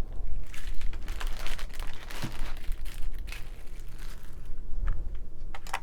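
Plastic packaging crinkling and rustling as items are handled, with a few sharp clicks near the end.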